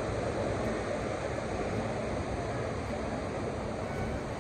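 Steady rushing of water from a swollen mountain stream.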